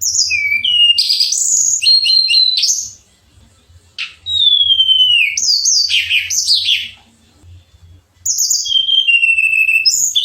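Tledekan songbird singing in three phrases of high whistles and quick trills, each with long falling whistled notes, separated by short pauses.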